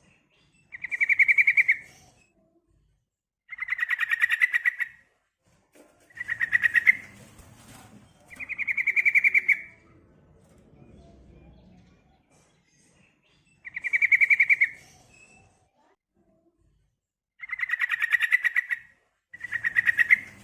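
Female yellow-vented bulbul (trucukan) giving her call, a fast chattering rattle repeated seven times in bursts of about a second each. This female call is used to lure males into answering.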